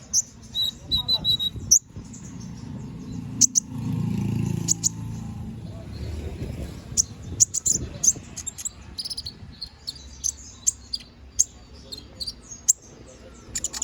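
Domestic canary singing a fast, chattering song of sharp high chirps and short trills. A low background rumble swells a few seconds in.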